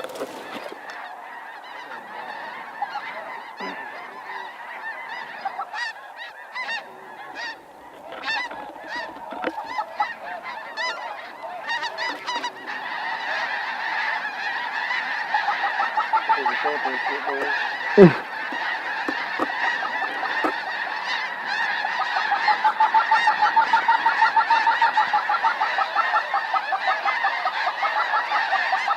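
A big flock of snow geese calling: scattered high yelps at first, building into a dense, loud chorus over the second half. One sharp bang about eighteen seconds in.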